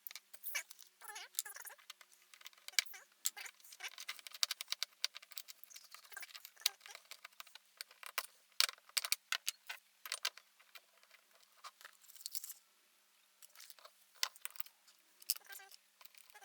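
Rapid light clicks, taps and rustles of skateboard truck parts being handled by hand: new urethane bushings, washers and the hanger being fitted back onto the kingpin. The clicking goes quiet for about a second near the end, then picks up again.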